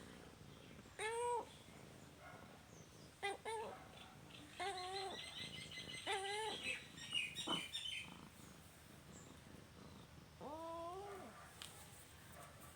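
Domestic cat meowing, about five short meows spread out, the last a little longer. Birds chirp quickly in the background for a few seconds midway.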